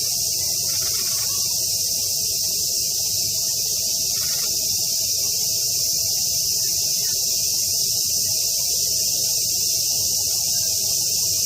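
Summer cicadas in chorus: a loud, steady, high-pitched buzz that does not let up.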